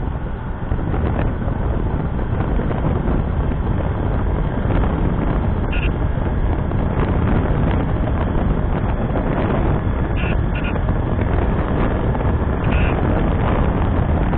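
Wind buffeting the microphone of a moving motorcycle, with engine and road noise underneath. A few brief high tones stand out now and then.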